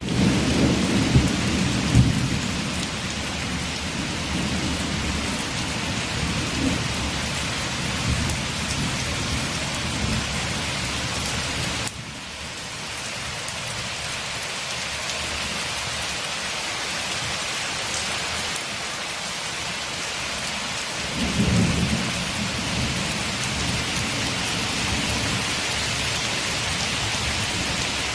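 Steady rain pattering on a window, with low rumbles of thunder through the first ten seconds or so and again about twenty-one seconds in. The sound shifts abruptly about twelve seconds in.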